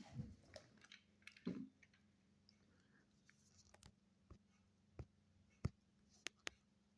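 Near silence broken by faint, scattered clicks and light taps, a dozen or so at uneven intervals, from small toy figures being handled and set down.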